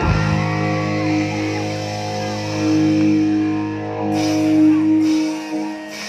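Live band playing an instrumental passage with held chords and a bass line; the bass drops out about five seconds in while cymbals come in above.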